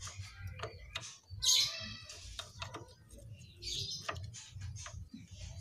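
Birds chirping in short repeated calls, loudest about a second and a half in and again near four seconds, over scattered light metal clicks from a motorcycle brake caliper being handled.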